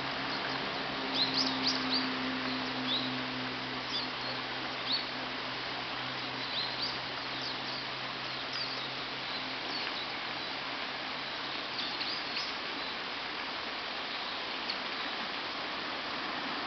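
Japanese white-eyes giving short, thin, high calls, several close together a second or two in and scattered single ones after. They sound over a steady background hiss, with a low hum that fades out about halfway.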